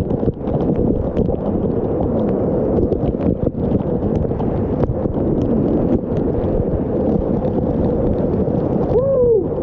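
Waterfall rushing close to the microphone, a loud steady noise with wind buffeting the mic. Near the end a short pitched call rises and then falls.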